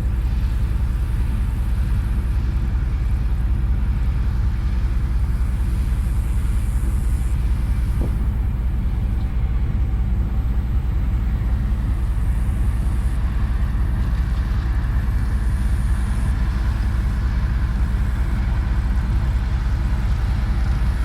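Vehicle engine running steadily with an even low rumble.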